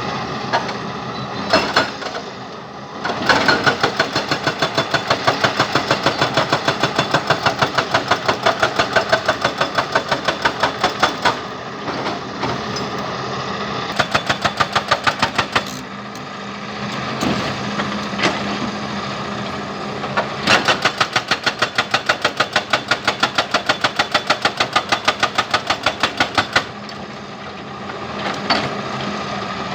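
Hydraulic breaker on a Cat excavator hammering rock in four long runs of rapid, evenly spaced blows, with the excavator's diesel engine running steadily in the pauses between them.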